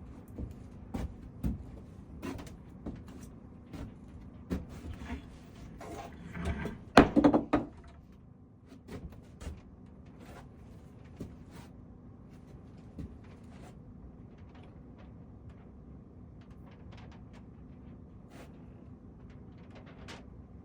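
Wooden cabinet doors being handled, opened and closed: a run of knocks and clicks, loudest about seven seconds in, then sparse light ticks.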